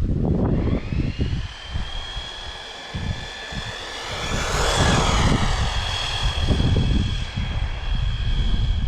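Electric motor and drivetrain of a 1/10 scale WLToys 4WD RC car whining at speed. The high whine rises as it gets going, is loudest about halfway through as it passes close by, then holds steady, over an uneven low rumble.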